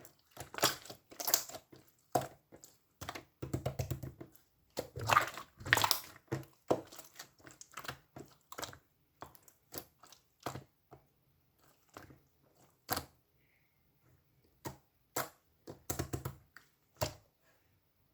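Green slime squished and pressed by hand, making irregular clicking and popping sounds. These come thick and fast at first, then thin out to scattered single pops with pauses between them.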